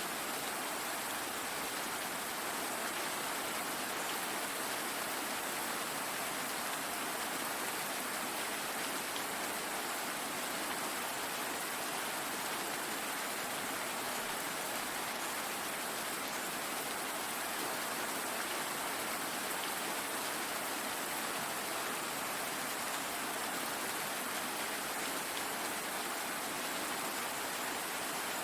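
Steady rain falling, a continuous even hiss of many drops with no thunder or other events.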